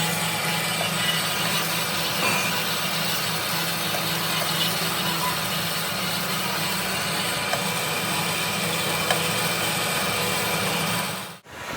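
Workshop machinery running steadily with a low hum and a few light ticks, cutting out sharply for a moment near the end.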